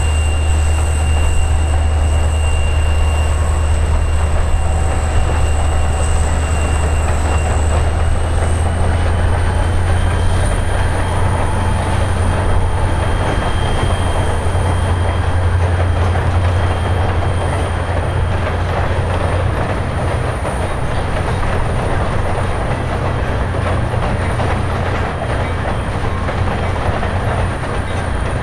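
EMD SD45T-2 diesel locomotive running under power: a steady, loud low engine drone with a thin high whine over it that rises slightly in pitch about eight to ten seconds in.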